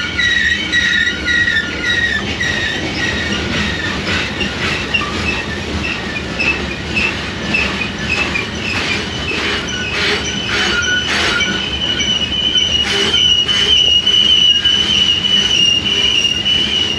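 Train rolling past with its steel wheels squealing in high, wavering tones, over a rumble of wheels on rail with scattered clicks. In the second half the squeal settles into one steady high tone and grows a little louder.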